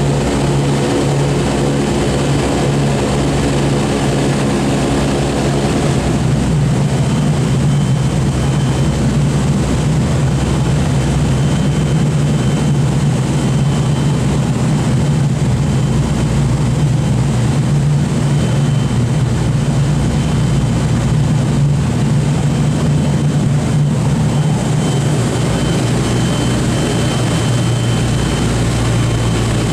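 Large propeller aircraft's radial piston engines running steadily at close range, with the tone shifting about six seconds in as the higher overtones drop away. These are most likely the four Wright R-3350 radial engines of the Boeing B-29 Superfortress.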